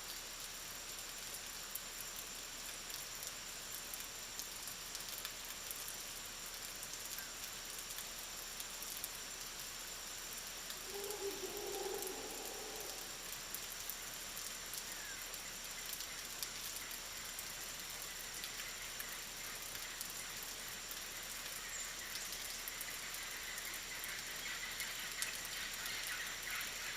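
Steady rainfall, an even hiss of rain through the forest with a thin, steady high-pitched tone over it. About eleven seconds in comes a brief pitched call or squeal lasting a couple of seconds.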